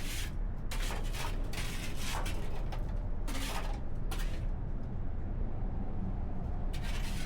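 A shovel scraping trash and grime out from behind a garbage truck's packer blade, about six short scrapes over a steady low rumble.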